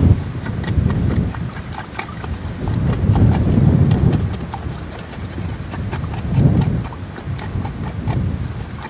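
Strong wind buffeting the microphone in gusts, loudest about three and six and a half seconds in, with scattered light clicks and knocks throughout.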